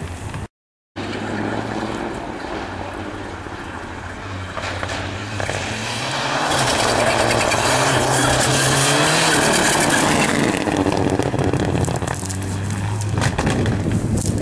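Rally car engine coming closer and passing at speed, revving hard with its pitch rising repeatedly, loudest just past the middle. A moment of dead silence from an edit cut comes just after the start.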